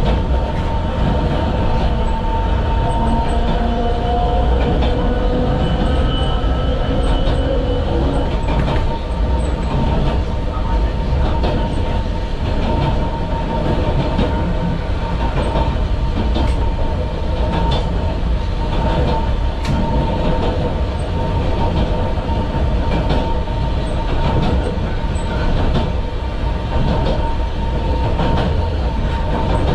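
A 762 mm narrow-gauge electric train running along the line, heard from inside its front car: a steady hum with a constant whine, and irregular clicks as the wheels pass over the rails.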